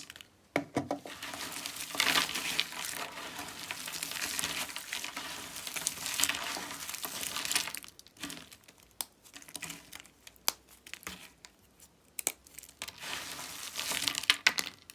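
Dyed bar soap being cut and crumbled: a dense, crackling, crunchy run of small breaks for several seconds, then scattered single clicks, then a second shorter crackling run near the end.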